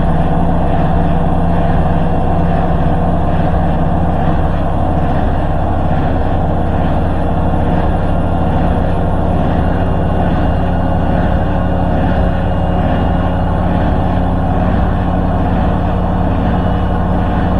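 Hoover H-wash 300 Plus washing machine spinning at speed: a loud, steady drone from the drum and motor, sounding like an airplane.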